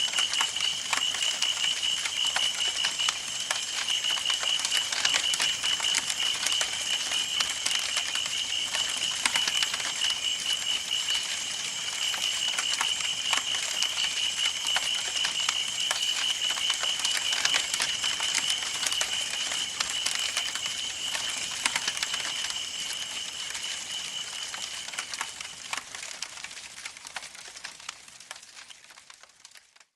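Campfire burning, with wood crackling and popping in frequent sharp snaps over a soft hiss. A steady, fast-pulsing high chirp runs beneath it and stops near the end, and the whole sound fades out over the last few seconds.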